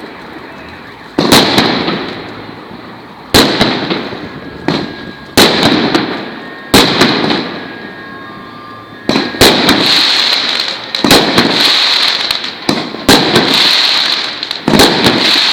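Fireworks going off: sharp bangs every one to two seconds, each followed by a crackling, fizzing tail. The crackle becomes denser and nearly continuous from about nine seconds in.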